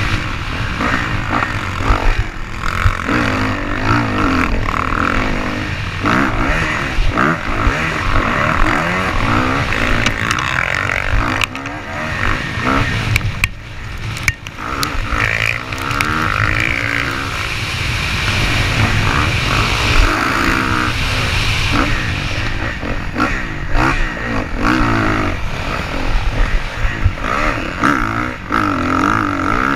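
Motocross dirt bike engines revving up and down, pitch rising and falling repeatedly as the bikes ride.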